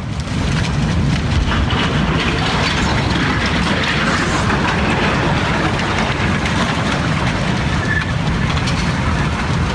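A landslide moving: a loud, steady rushing rumble with the rattle and clatter of tumbling debris.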